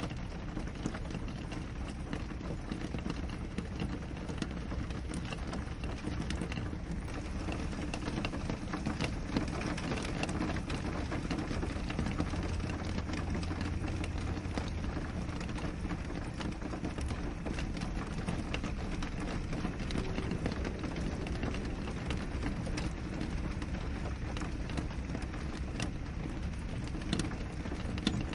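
Rain pattering on a window glass: a dense, steady hiss of drops with many small separate taps. A low rumble runs underneath and swells briefly about halfway through.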